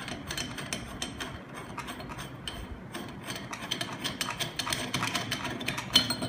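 Metal joint fitting being unscrewed and taken off an insertion magnetic flowmeter by hand: a dense, irregular run of small metallic clicks and rubbing, with one sharper click near the end.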